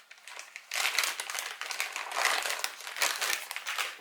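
Crinkly plastic baby-wipe packet being handled and a wipe pulled out, a dense crackling that starts about a second in and runs on to near the end.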